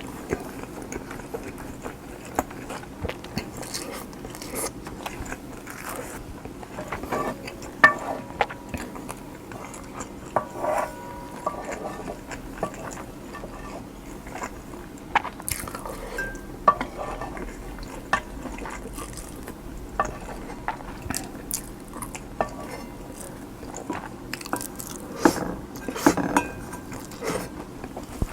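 Close-miked eating of kimchi fried rice: a metal spoon clinking and scraping against the dish, with biting and chewing in between.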